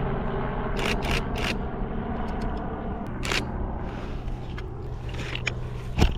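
DSLR camera shutter firing: three quick clicks about a second in, another just past three seconds and one near the end. Under them runs the steady low drone of a propeller airplane overhead.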